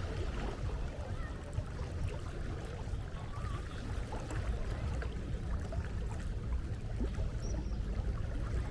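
Sea water washing with a steady low rumble, and faint short gull calls now and then.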